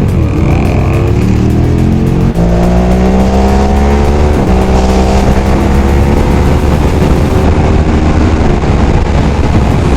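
Motorcycle engine accelerating hard through the gears. The pitch climbs steadily, with short breaks at gear changes about two and four seconds in.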